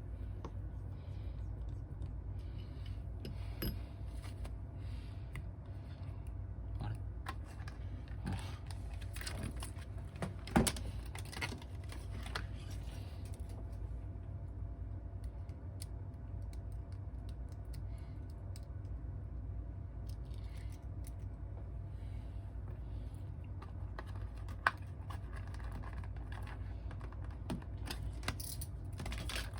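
Scattered light clicks and taps of small hard objects being handled, with a sharper click about ten seconds in and another near the end, over a steady low hum.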